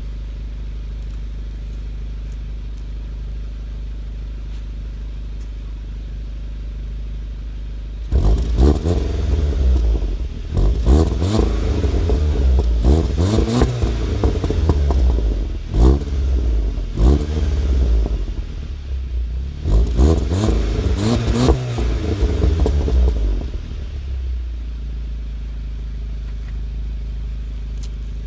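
Volkswagen Golf GTI Clubsport's turbocharged four-cylinder petrol engine idling steadily through its exhaust, then blipped up and down in a string of revs for about sixteen seconds with pops and bangs from the exhaust on the lift-offs, then settling back to idle.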